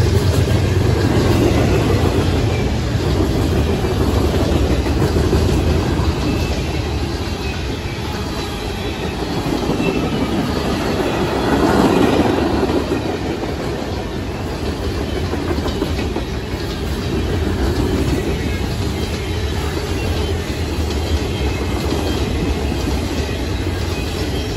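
Freight train's boxcars and tank car rolling past: a steady rumble of steel wheels on the rails with a rapid run of clicks, swelling a little about halfway through.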